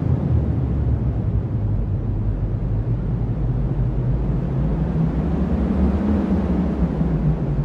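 Strong cyclone wind: a steady, deep rumbling noise with little hiss, swelling slightly about six seconds in.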